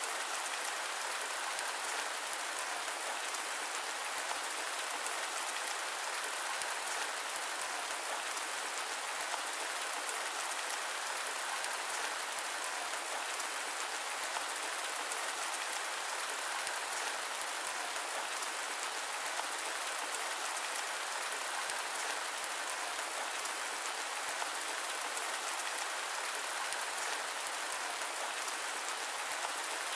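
Steady rain: an even hiss with a fine patter of drops and no low rumble, unchanging throughout.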